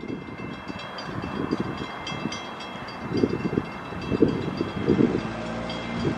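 A train passing close by: a steady high-pitched whine over the rumble of the cars, with several heavy low knocks from the wheels, and a lower steady hum coming in near the end.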